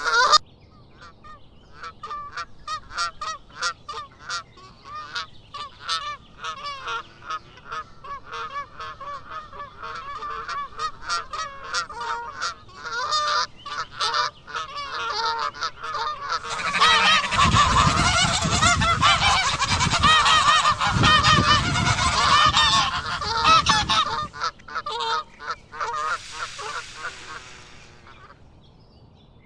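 Geese honking in a long run of short repeated calls. Around the middle the calls become much louder and overlap, as from many birds at once, then thin out and fade near the end.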